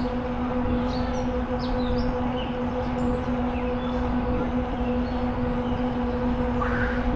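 Birds chirping and calling in short, scattered notes over a steady low hum and a constant rumble of rolling noise.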